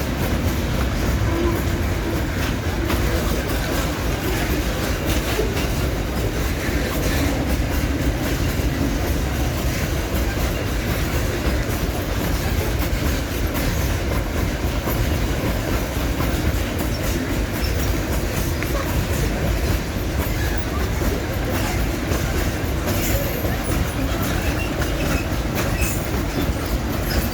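Limestone freight train's wagons rolling past steadily, wheels clicking over the rail joints, with occasional wheel squeal.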